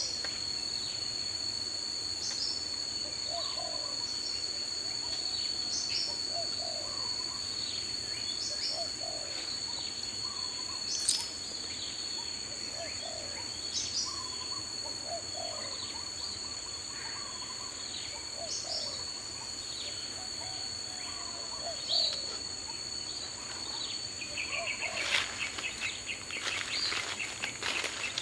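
Daytime forest ambience: a steady high insect drone with birds calling throughout, one low call repeating about every second and a half among many short chirps. Near the end a fast, rattling run of notes comes in.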